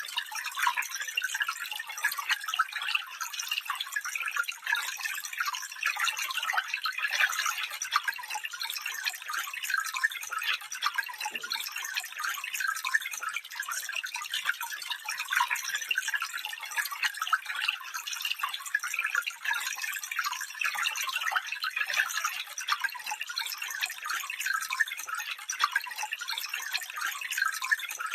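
Small stream running over stones, a steady trickling and babbling with many small splashes.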